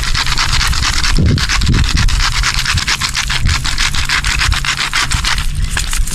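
Quick, rhythmic scraping or rubbing strokes, several a second, that stop about five and a half seconds in.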